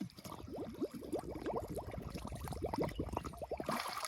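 Water gurgling and bubbling: a quick run of short, rising bubbly notes that stops near the end.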